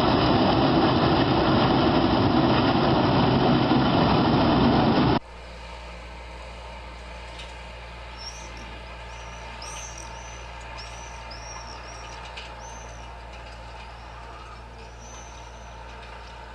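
Loud, heavy machine engine running, cut off abruptly about five seconds in. After the cut comes a quieter steady engine hum with a scatter of short high chirps over it.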